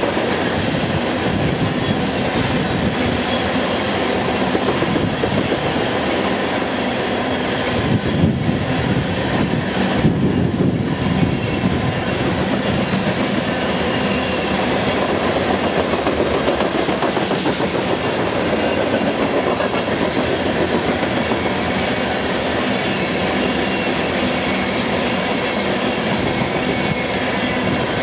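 Coal hopper cars of a freight train rolling past: a steady rumble and clatter of steel wheels on the rails. Now and then a faint high wheel squeal comes and goes.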